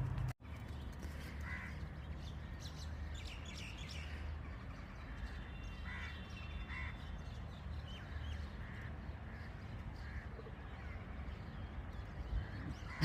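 A few short bird calls, caws and chirps, spaced seconds apart over a low steady rumble.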